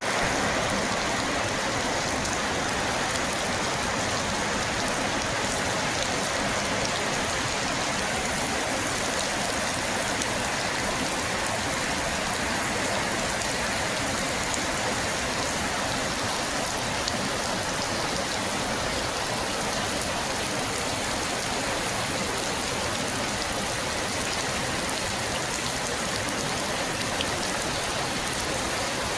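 Steady rain falling: an even hiss with faint, scattered ticks of drops striking a surface.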